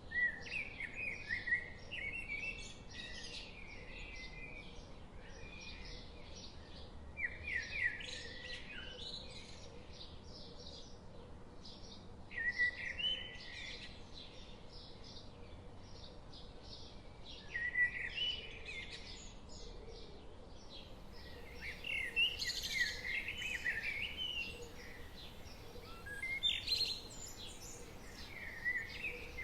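Songbirds singing: one bird repeats a short song phrase about every five seconds, with many quick high chirps from other birds in between. Beneath them runs the steady low rush of a forest stream.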